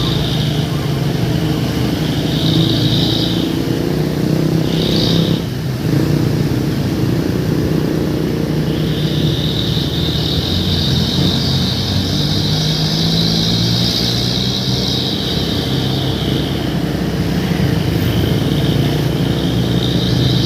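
Truck engine running through a 'knalpot Cung' aftermarket exhaust, a steady low drone. A high whistle rises over it several times, the longest stretch lasting several seconds past the middle.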